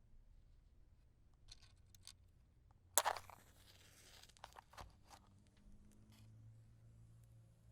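A wooden match struck about three seconds in: a sharp scrape that flares and fades over about half a second as it catches. Faint clicks of handling the matches come before and after it.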